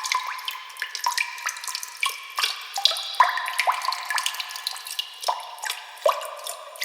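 Water dripping: a quick, irregular stream of drops, each a short plink that rises in pitch.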